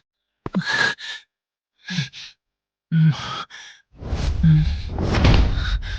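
A voice actor's breathy sighs and gasps: several short breaths, some with a little voice in them, then a louder, noisier stretch of sound from about four seconds in.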